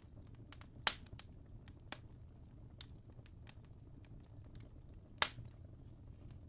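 Fire crackling: scattered soft ticks with two sharp pops, one about a second in and one near the end, over a low steady rumble.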